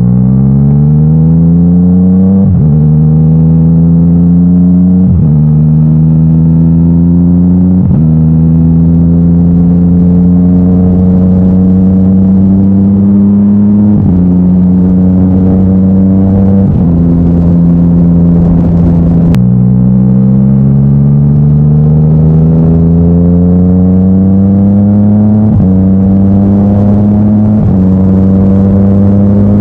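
Yamaha MT-09 inline three-cylinder engine running through an Akrapovic titanium exhaust while riding. The pitch climbs slowly and drops back suddenly, about eight times, as the bike pulls through gear changes and throttle changes.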